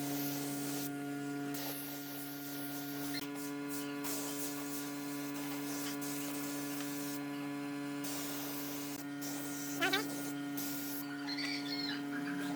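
Steady electrical hum with several fixed pitches, the strongest a mid-low drone. A brief wavering chirp cuts in about ten seconds in.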